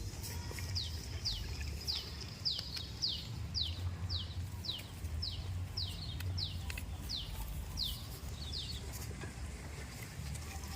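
A bird calling a long series of short, high notes that each fall in pitch, about two a second, stopping about nine seconds in, over a steady low rumble.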